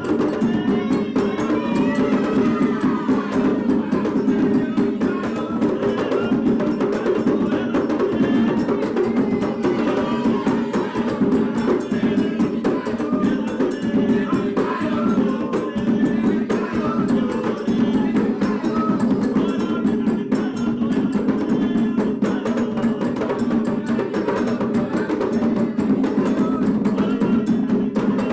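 Candomblé drumming for Oxum: atabaque hand drums, led by the rum, playing a steady, dense rhythm with a sharp wood-block-like strike on top.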